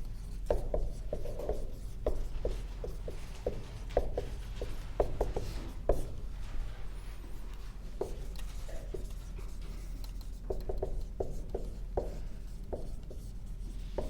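Writing on a board: a run of irregular short taps and scratches, several a second, with brief pauses.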